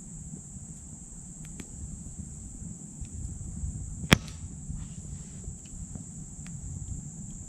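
Small wood fire in a titanium wood stove crackling with faint scattered ticks and one loud, sharp pop about four seconds in. A steady high-pitched insect drone runs underneath.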